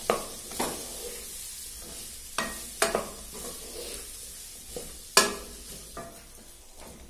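Sweet potato pieces with tomato and green chilli sizzling in hot mustard oil in a kadhai while being stirred with a wooden spatula: a steady sizzle with several scrapes and knocks of the spatula against the pan, the loudest about five seconds in.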